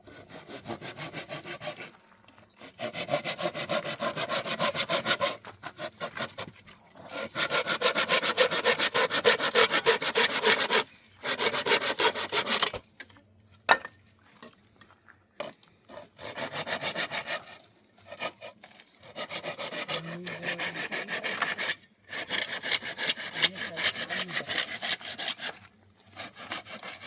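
Wood being hand-sawn in several bouts of quick strokes, each lasting a few seconds with short pauses between. There is a single sharp knock during one pause in the middle.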